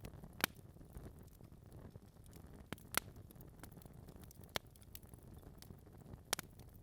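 Wood fire burning in a fireplace: a low steady rumble of flames with sharp log crackles and pops at irregular intervals, the loudest about half a second in, at three seconds, and near the end.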